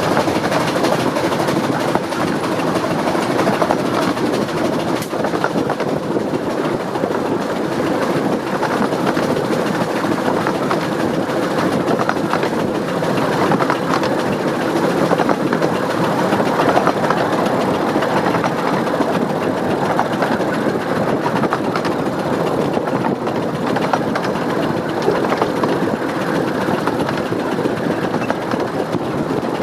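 15-inch gauge steam locomotive 'Northern Rock' working hard up a steep gradient: a steady run of chimney exhaust mixed with the clatter of carriages on the rails.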